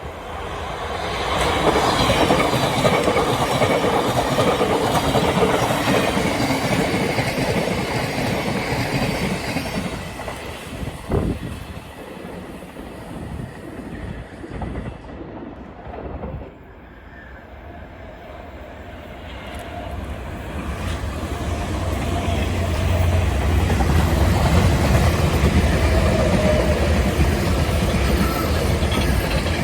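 Passenger trains passing on the railway, wheels clattering over the rail joints. One train goes by over the first ten seconds, with a sharp click at about eleven seconds. Another grows louder from about twenty seconds in and keeps up a deep hum to the end.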